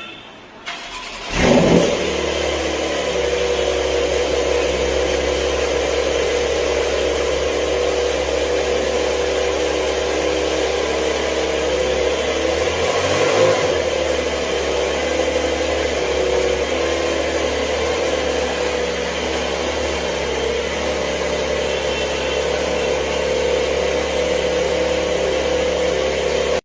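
Porsche 911 Carrera S flat-six engine on a cold start: it fires about a second in, flares loudly for a moment, then settles into a steady idle.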